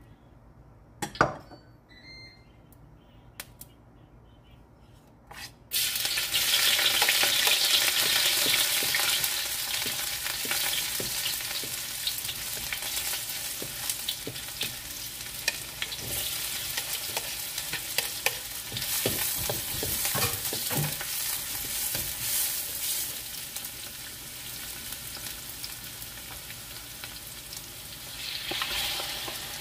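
Oil heating in a steel wok, near-quiet at first apart from a sharp knock, then a sudden loud sizzle about six seconds in as chopped aromatics hit the hot oil. The sizzle goes on steadily with the scrape and tap of a wooden spatula stirring. Near the end it swells again as sliced raw chicken goes in.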